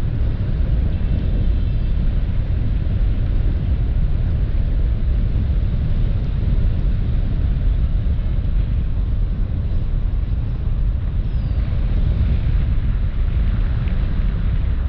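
Wind rushing over the camera microphone in flight on a paraglider: a loud, steady low rumble.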